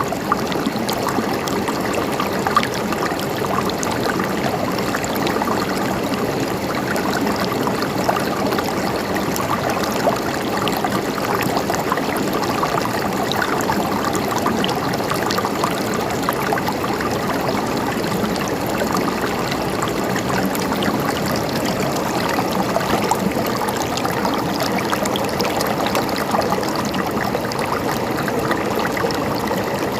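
Small stream of water flowing and gurgling over stones, a steady babbling with fine trickling detail.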